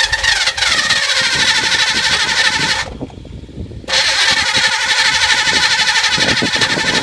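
Chevrolet Camaro's small-block V8 being cranked on the starter in two long tries, about four seconds and then about three and a half, with a short pause between, not catching and running. It is starved of fuel: its Holley electric fuel pump is seized.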